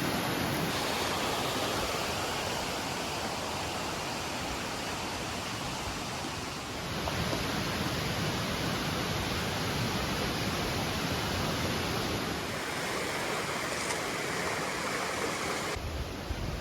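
Mountain stream rushing steadily, its tone shifting slightly a few times.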